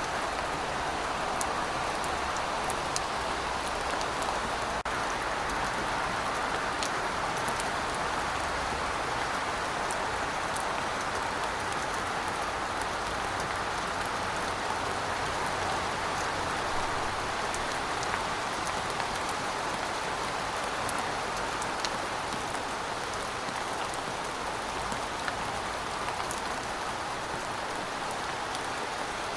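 Heavy rain falling steadily, a dense even hiss with scattered sharp ticks of single drops striking.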